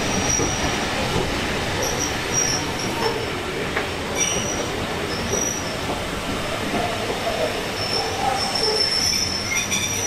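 Heritage railway carriage running along the line: a steady rumble of wheels on rails with a high-pitched wheel squeal coming and going, more often near the end.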